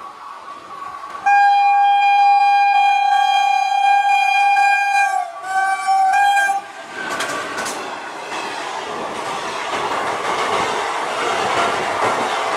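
WAP-4 electric locomotive's horn sounds one long blast of about four seconds and then a short second blast, about five and a half seconds in, as the train runs through. The passenger coaches then rush past close by, with a rising rumble and the clickety-clack of wheels over rail joints.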